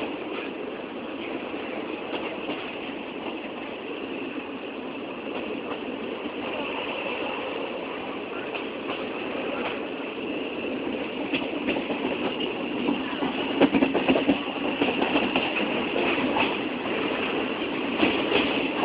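Train running on the rails: a steady rumble with scattered clacks and knocks from the wheels, growing louder and busier in the second half.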